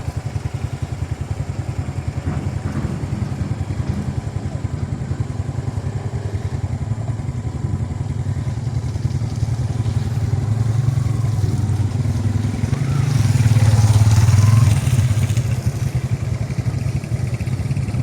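Small motorcycle engine running steadily under way, louder and working harder for a couple of seconds past the middle before easing back.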